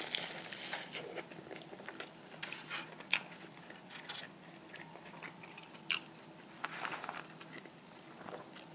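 A person biting into and chewing a large bacon burger, soft wet mouth sounds broken by a few sharp crackly clicks.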